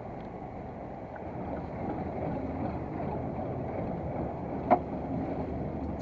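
Fishing boat under way: its engine runs steadily with water noise, getting a little louder about a second and a half in. A single sharp knock comes near the end.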